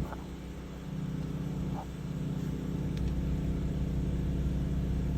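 Sewer water jetter's engine and pump running steadily while jetting a clogged sewer line. The hum dips slightly just after the start and picks back up about a second in.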